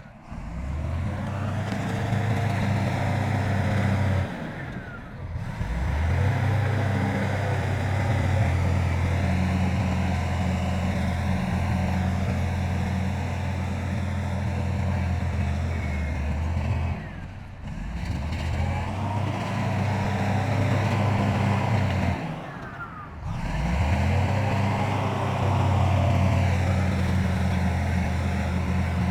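Diesel engine of heavy earthmoving machinery running steadily, with brief drop-outs about 5, 17 and 23 seconds in.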